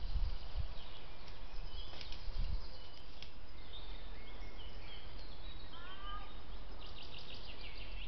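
Songbirds chirping and calling in woodland, short notes and a few rising whistles, over the steady hiss of a trail camera's microphone. A few low thumps come in the first seconds.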